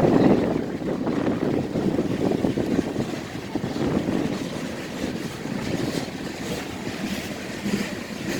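BNSF grain train's freight cars rolling past, a steady noise that rises and falls, with wind buffeting the microphone.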